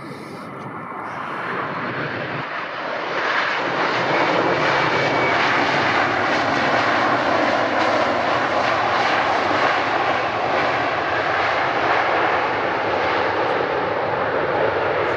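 Airliner engines running loud as the aircraft passes nearby, the noise swelling over the first few seconds and then holding steady.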